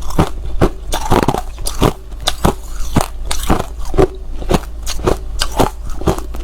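Hard ice being bitten and chewed, close to the microphone: a rapid, steady run of sharp crunches, about three to four a second.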